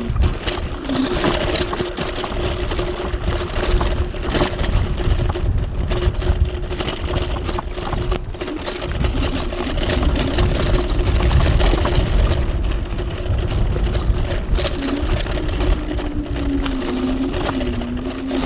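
TRBK-M2 electric hyperscooter riding off-road: a steady electric motor whine, with a second tone that wavers in pitch as the speed changes, over a heavy low rumble and scattered knocks and rattles from the rough ground.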